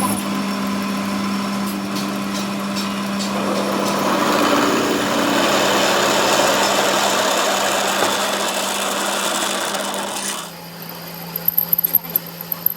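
A workshop machine or power tool running with a steady hum and a rough, noisy working sound that swells through the middle. About ten seconds in it changes abruptly to a thin high whine with scattered clicks.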